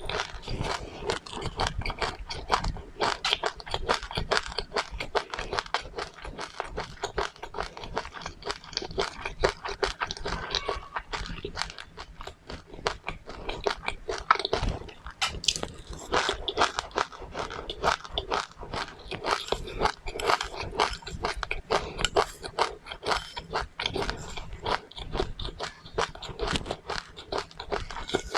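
A person chewing a mouthful of crunchy seeds close to the microphone: a continuous run of many rapid, sharp crackles and crunches.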